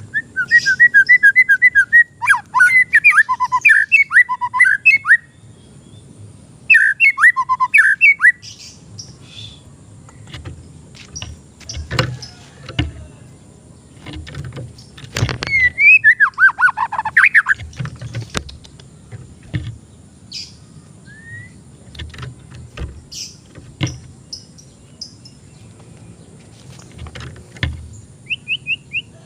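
White-rumped shama (murai batu) singing in loud bursts of rapid whistled phrases: one near the start, another about seven seconds in, and a falling run about sixteen seconds in. Between the bursts come scattered short clicks and taps, with a faint steady high tone underneath.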